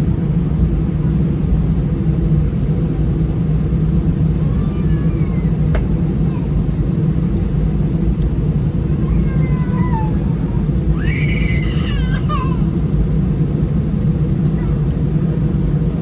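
Steady low rumble inside the cabin of an Airbus A319 on the ground. A brief high, wavering voice cuts through about eleven seconds in.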